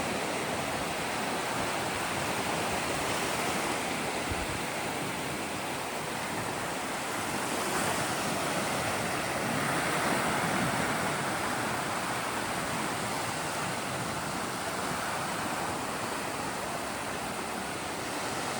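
Ocean surf washing steadily onto the beach, a continuous rushing that swells slightly about eight and ten seconds in.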